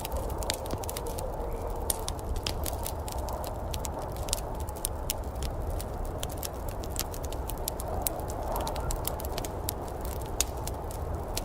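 Wood fire in a fireplace crackling, with irregular sharp pops several times a second over a steady low rumble and hiss.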